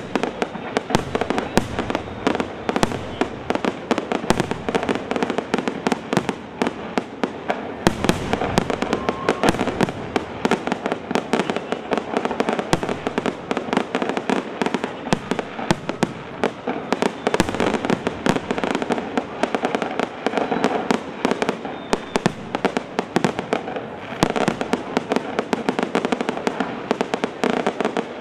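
Aerial fireworks display: shells and crackling effects going off in a dense, continuous barrage of sharp bangs, many every second with no pause.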